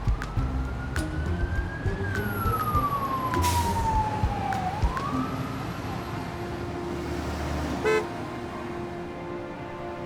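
Emergency vehicle siren wailing: one slow rise and a long fall in pitch, then starting to rise again, over a low rumble.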